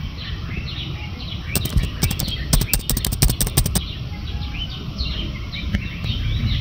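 Birds chirping repeatedly in short falling calls over a steady low outdoor rumble. About one and a half seconds in, a quick run of sharp keyboard-typing clicks lasts roughly two seconds.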